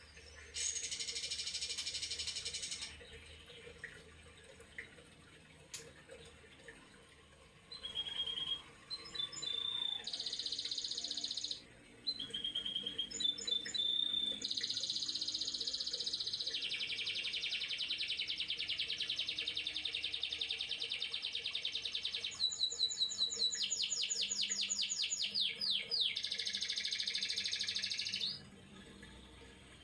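Young male white-rumped shama singing in loud, high phrases of fast trills and quick repeated notes. Short bursts with pauses come first, then a long nearly unbroken run of song in the second half.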